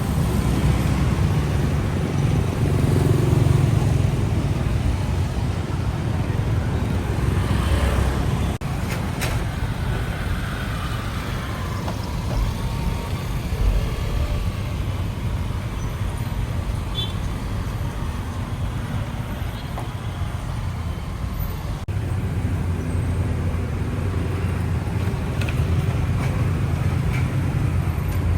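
Street traffic: a steady low engine rumble with road noise, swelling a little in the first seconds and again near the end.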